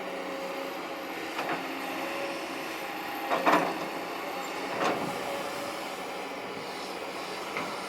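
Kobelco SK200-8 excavator running steadily under work, with a few sharp clanks and knocks, the loudest about three and a half seconds in and another near five seconds.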